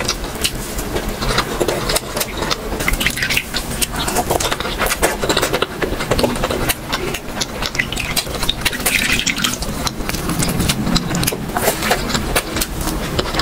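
Close-up wet chewing of a soft, spongy rasgulla, with many sharp, wet mouth clicks and squelches.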